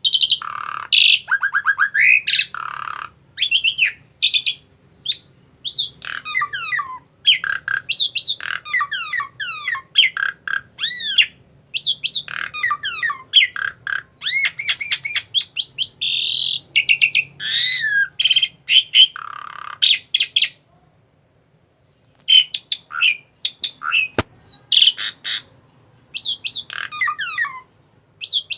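Asian pied starling (jalak suren) singing a fast, varied run of whistles, chirps and harsh squawks, with a pause of about two seconds two-thirds of the way in. A single sharp click comes shortly after the pause.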